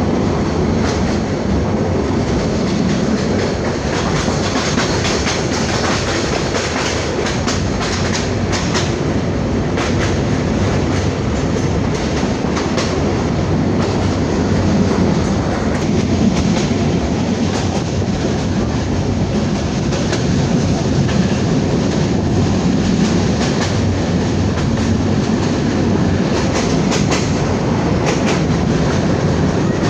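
Passenger train running steadily: a continuous rumble of the moving carriage, with irregular clicks and clacks of the wheels over the rail joints.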